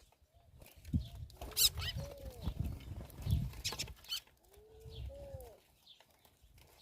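Birds feeding at scattered bait: irregular pecking and scuffling thuds, with several short, low calls that rise and fall in pitch. The activity is busiest through the first half and eases off near the end.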